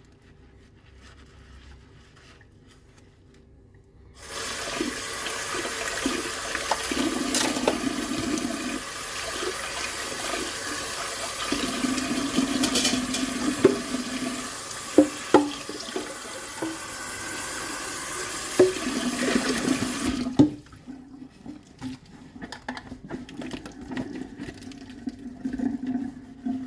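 Kitchen tap turned on about four seconds in, running water into the sink for about sixteen seconds, then shut off. Dishes clink and knock several times under the stream, and a few softer knocks follow after the water stops.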